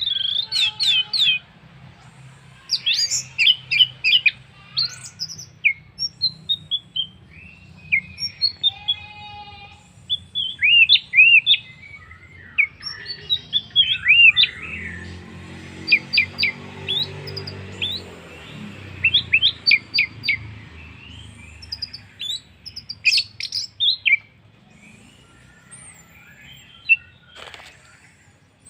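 Orange-headed thrush singing a varied song of quick whistled phrases, rapid note strings and short sweeping notes, delivered in bursts with brief pauses and growing sparse near the end. A faint low hum runs underneath.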